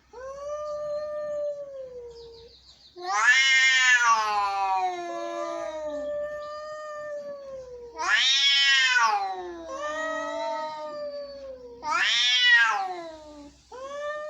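Angry cats caterwauling: long, drawn-out yowls that rise and fall in pitch. Louder, higher yowls come about three, eight and twelve seconds in, with quieter, lower wails between them, like two cats trading threats.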